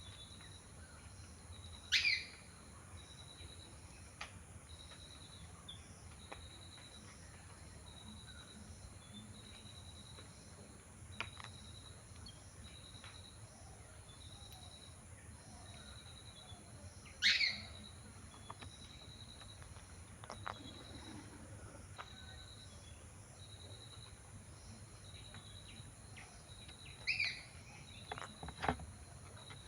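Outdoor ambience of insects: a steady high hum and a regular pulsing chirp. Three times, a louder short call from a bird sweeps down in pitch, with a few sharp clicks near the end.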